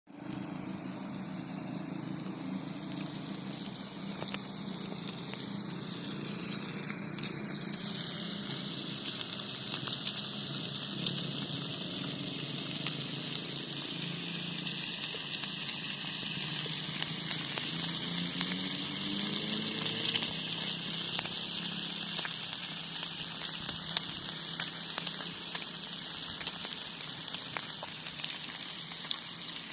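Meat sizzling steadily on a hot iron griddle over a campfire, a continuous hiss dotted with small pops.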